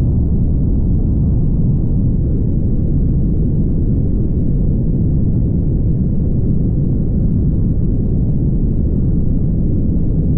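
Steady road noise of a car driving on the highway: an even, low rumble of tyres and engine with no distinct events.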